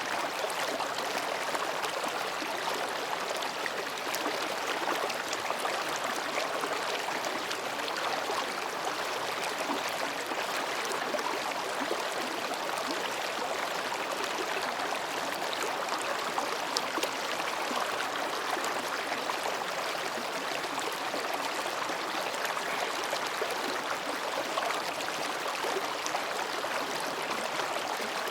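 Mountain stream babbling as it flows between rocks: a steady, even rush of running water.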